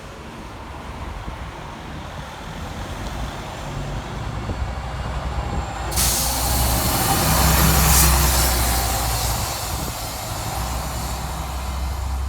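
Scania L94UB bus engine running with a steady low rumble. About halfway through, a sudden loud hiss of compressed air comes in and slowly fades, while the engine note swells for a few seconds.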